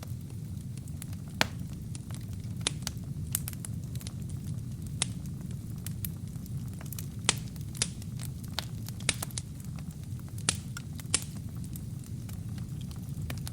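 Burning wood in a fireplace, crackling with sharp, irregular pops and snaps over a steady low noise from the fire.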